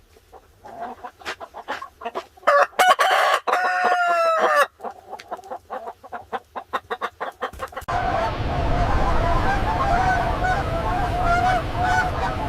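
Chickens clucking, with a rooster crowing about 2.5 seconds in. About 8 seconds in the sound changes abruptly to a denser chatter of farmyard fowl over a low rumble.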